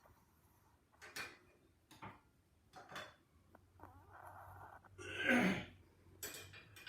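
Maltese dog snoring in deep sleep: short breaths about once a second, then a longer, louder snore about five seconds in.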